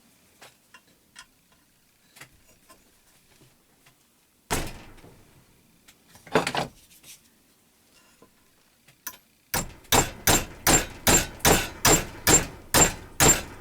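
Metal struck sharply: two single knocks, then a fast run of even taps, about three a second, each with a light metallic ring, like a hammer tapping on a steel part of the belt grinder.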